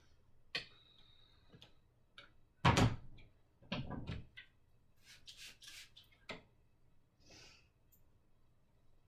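Household handling noises: a few knocks and thumps, the loudest about three seconds in, with short hissing sounds in the middle.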